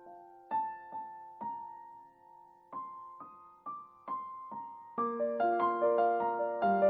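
Background piano music: a slow melody of single notes, each left to ring and fade, joined about five seconds in by fuller chords and quicker notes.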